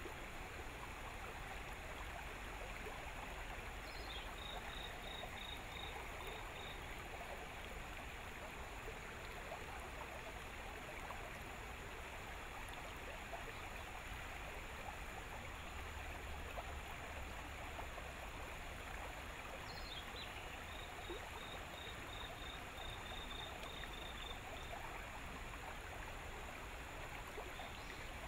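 Steady hiss of outdoor riverside background noise with a faint low rumble. Twice, a bird calls: a quick falling note, then a string of evenly spaced high notes at about three a second.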